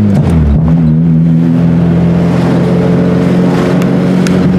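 Acura RSX's 2.0-litre four-cylinder engine running while driving, heard from inside the cabin. Its pitch dips briefly about half a second in, then holds steady.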